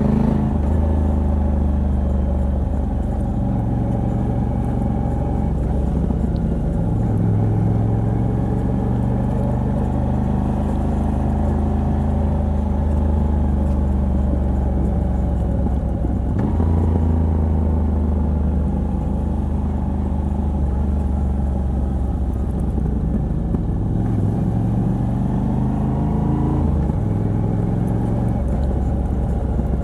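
Moto Guzzi V85TT's air-cooled transverse V-twin, fitted with a de-cat pipe on the stock exhaust, running under way at a relaxed pace. The engine note holds steady for long stretches, changing pitch a few times, with a rise and then a sharp drop near the end.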